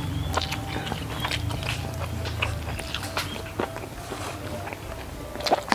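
Close-miked chewing of a mouthful of sausage stir-fry and rice, with many short wet mouth clicks and smacks.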